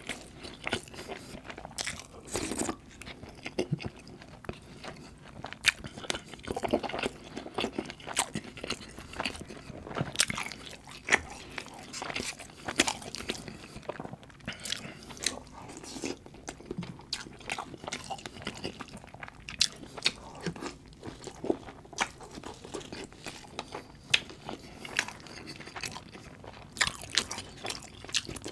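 Close-miked chewing and mouth sounds of a person eating butter chicken and rice, with many short sharp clicks and smacks at an irregular pace.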